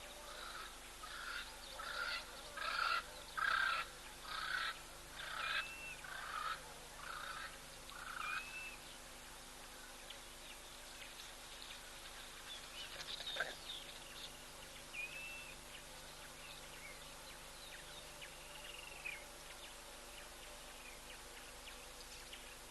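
A bird calling a rapid, rhythmic series of about a dozen harsh notes, building up and then fading over some eight seconds, followed by a few short chirps.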